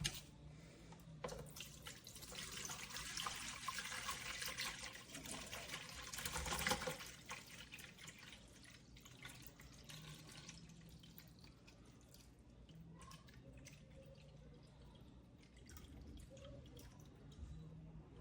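Water poured from a gallon jug into a humidifier's water tank, fullest during the first half, then fainter and thinner.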